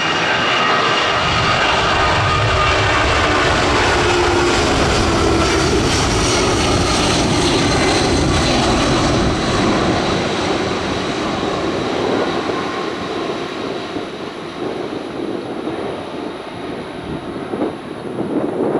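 Jet airliner's engines at takeoff power: a loud roar with a thin whine over it, fading away after about ten seconds.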